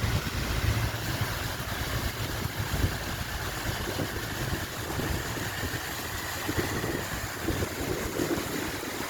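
Water falling steadily from a marble waterfall fountain, a continuous rushing hiss. Wind buffets the microphone with a low rumble, strongest in the first few seconds.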